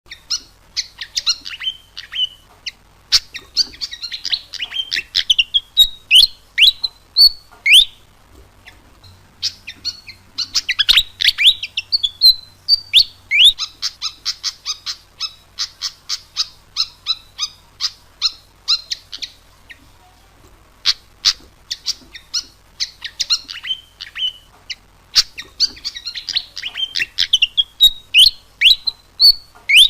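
Fantail (sikatan kipas) singing vigorously: three bouts of rapid, high chirps, short rising and falling whistles and quick trills, each bout lasting about eight to ten seconds with a short pause between them.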